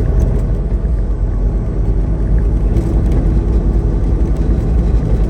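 Steady low rumble inside the cab of a semi truck with its engine running.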